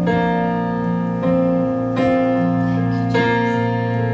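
Keyboard or piano playing sustained chords in a worship song's instrumental gap between sung lines, a new chord struck about every second.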